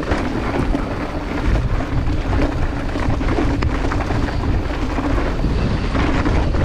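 Mountain bike descending a dirt downhill trail, heard from the rider's action camera: a steady rumble of tyres on dirt with constant small rattles and knocks from the bike over rough ground.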